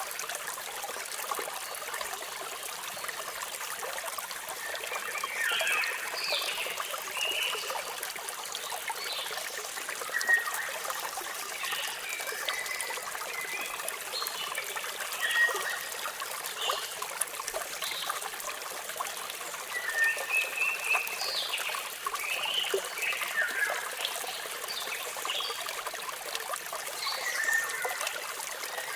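Steady rushing of falling water, with birds chirping in short scattered calls and quick pitch sweeps throughout.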